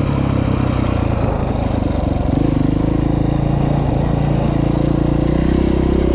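Off-road motorcycle engine running steadily at low to moderate revs, close up, with a small change in engine pitch about two seconds in.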